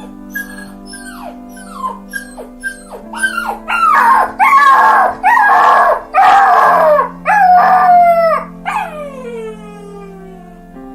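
A dog crying and whining: a quick run of short, high whimpers that fall in pitch, then several long, loud howling cries in the middle, ending in a long whine that slides down.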